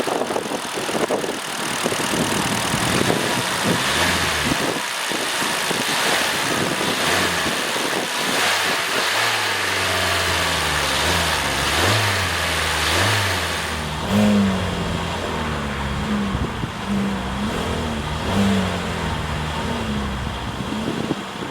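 2022 Hyundai Kona's 2.0-liter four-cylinder engine running, with a rough hiss in the first half. In the second half it is revved up several times in short rises and falls of pitch.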